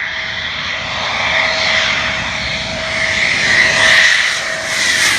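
Military jet aircraft engines running: a steady whine over a rushing noise that grows slightly louder.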